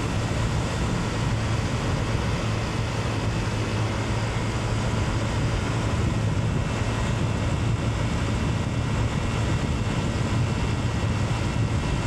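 Honda PCX125 scooter being ridden at a steady speed: a constant low engine drone mixed with wind and road noise.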